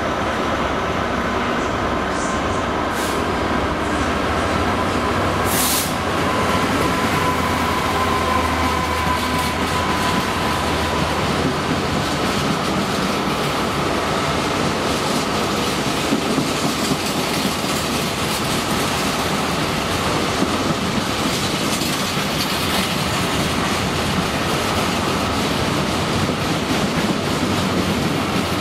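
Freight train hauled by a Class 66 diesel locomotive running through the station, then a long rake of freight wagons rolling past, wheels clattering steadily on the rails.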